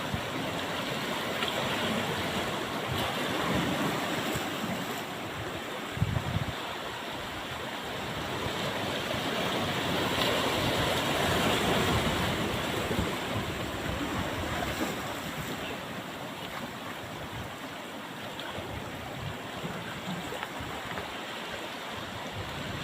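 Ocean surf breaking and washing up the beach, with wind buffeting the microphone. The wash swells louder through the middle. There is a brief low thump about six seconds in.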